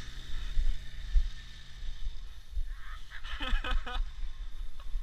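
Ural motorcycle's flat-twin engine droning and fading away over the first two seconds, with wind buffeting the microphone throughout. Brief faint calls come about halfway through.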